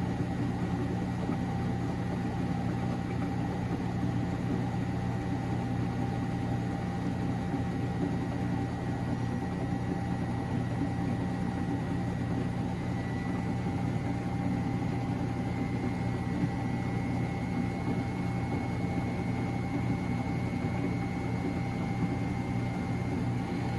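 Miele Novotronic W913 washing machine in its drain-and-spin after the second rinse: a steady motor hum with a high whine that creeps up slightly in pitch about halfway through.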